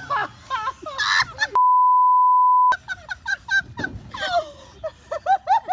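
A censor bleep, one steady tone about a second long, blanks out a word among excited shouting voices. Laughter breaks out near the end.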